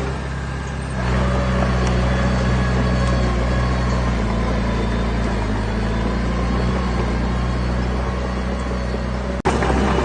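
Heavy diesel engine of earthmoving machinery running steadily, getting louder about a second in as it takes more load or comes closer. The sound drops out for an instant near the end.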